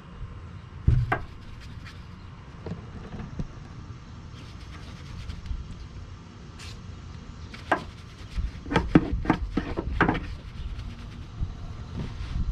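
Handling noises from cleaning tools and bottles: scattered knocks and clicks over a low rumble, with a thump about a second in and a quick run of clicks near the end.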